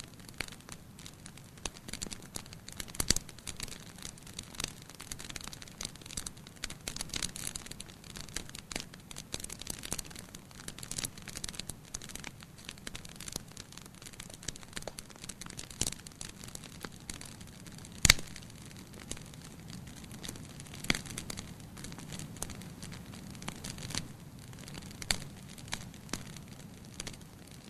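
Wood fire burning in a fireplace, crackling steadily with frequent sharp pops. The loudest pops come about three seconds in and near the middle.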